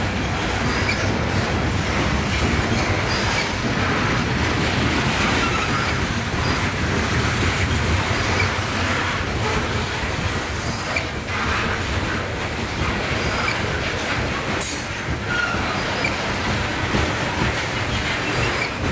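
Loaded coal hopper cars of a unit coal train rolling past: a steady rumble and rattle of steel wheels on the rails, with a few brief high wheel squeals.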